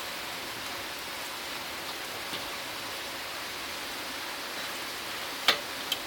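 Wood fire burning down to charcoal: a steady hiss with a couple of sharp crackling pops about five and a half seconds in.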